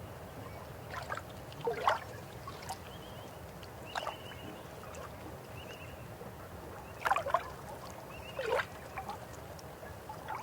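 River water flowing with a steady low rush, broken every second or two by splashy gurgles. The gurgles are loudest about two seconds in and again around seven to nine seconds in.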